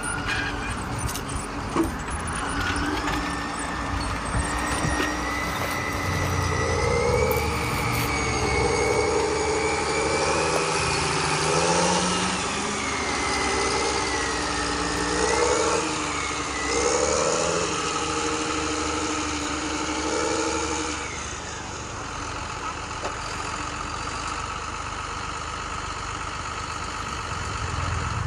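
Tractor engine sound running, its pitch rising and falling as if revving for the first two-thirds, then settling into a steadier, slightly quieter drone.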